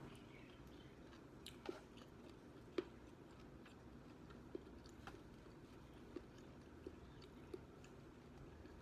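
A person quietly chewing spicy fried chicken with her mouth closed, with short wet mouth clicks and smacks about once a second over a faint steady room hum.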